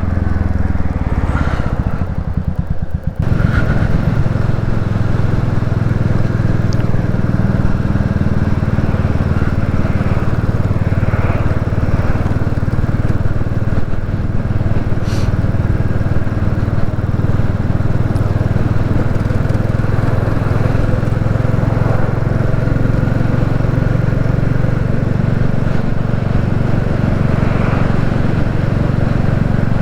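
Royal Enfield Classic 350's single-cylinder engine running as the motorcycle is ridden, with wind and road noise. About three seconds in, the engine and wind noise rise, then hold steady.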